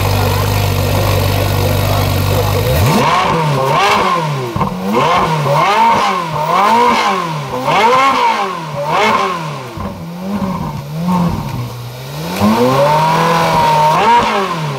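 Ferrari 458 Speciale's naturally aspirated flat-plane V8 idling, then blipped in a run of quick revs, about one a second, while parked. Near the end it is held up for a longer rev before dropping back to idle.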